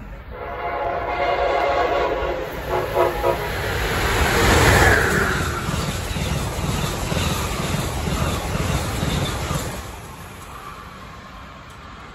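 Amtrak passenger train passing fast: its horn sounds for about three seconds as it approaches. The rush and rumble of the cars then sweeps past with a falling pitch and fades near the end.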